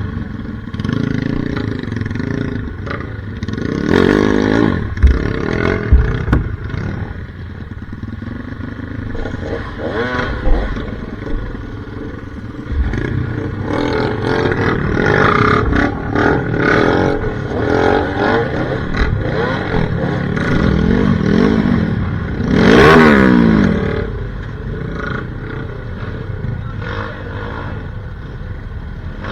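Off-road trail motorcycle engine riding over rough ground, the revs rising and falling repeatedly with sharp rev swells about 4 seconds in and again near the end, along with scattered knocks and clatter from the bike.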